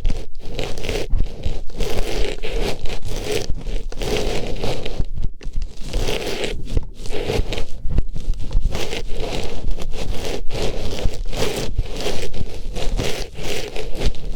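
Close-up rustling and scraping of an artificial flower's fabric petals being pushed into and rubbed around a microphone's ear, in uneven strokes with brief gaps.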